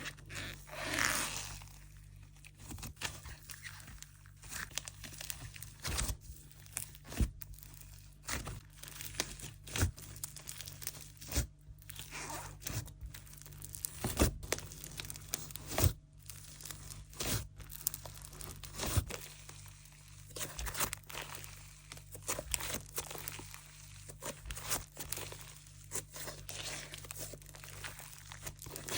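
Hands stretching, poking and squishing a butter-fizz texture slime, giving irregular small pops, crackles and tearing sounds.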